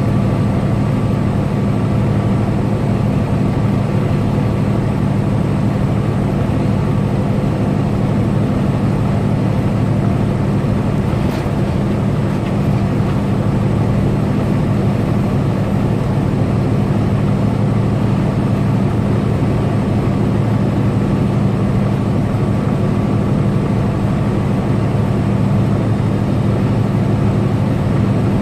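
Tractor-trailer truck's diesel engine droning steadily at highway cruise, with a low, even hum and road noise.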